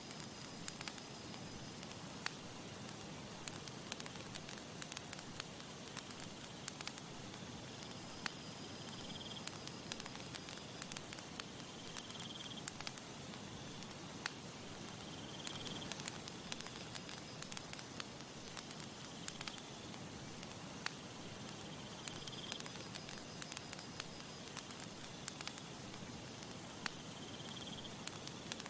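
Campfire crackling: frequent sharp pops and snaps over a steady hiss. A faint high-pitched call repeats about every three seconds in the background.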